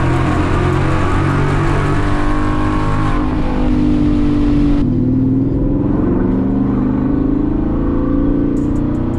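S550 Ford Mustang GT's 5.0 V8 through a loud aftermarket exhaust, pulling under acceleration with its pitch climbing, and a sudden change in the sound about five seconds in.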